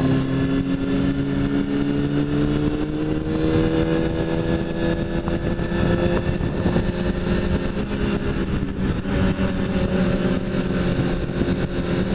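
Kawasaki ZX-6R sport bike's inline-four engine pulling under throttle, its note rising slowly over about six seconds as the bike gathers speed, then holding steady at a cruise. Steady wind and road noise runs underneath.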